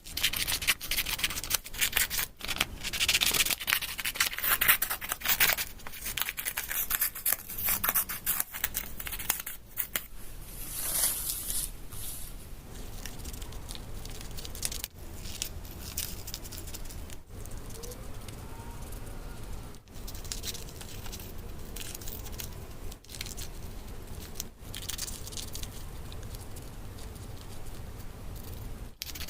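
Paper being handled close to the microphone: rustling and crinkling with quick clicks and taps, busy for the first ten seconds, then sparser.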